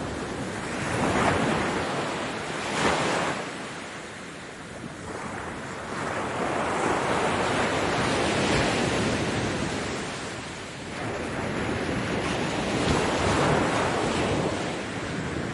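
Ocean waves breaking on a beach: a continuous rush of surf that swells and ebbs every few seconds, with a sharper surge of spray about three seconds in.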